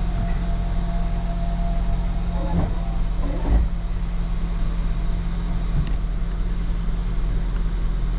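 2014 Ford Escape engine idling steadily, heard from inside the cabin, with the rear windshield wiper running. A short low thump comes about three and a half seconds in.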